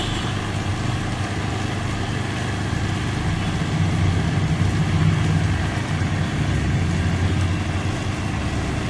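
Repaired bike-washing pump motor running with a steady hum while pumping water through its hose. After the fix for a leak that let it draw air, it runs quietly and builds good pressure.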